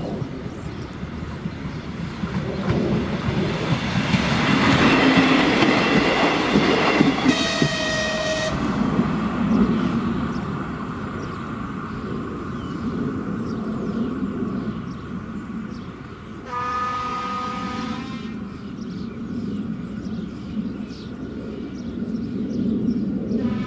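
Passenger train running over the level crossing, its wheels clacking on the rails and loudest a few seconds in, with a horn blast of about a second as it goes by. The horn sounds again, more faintly, about two-thirds of the way through and near the end.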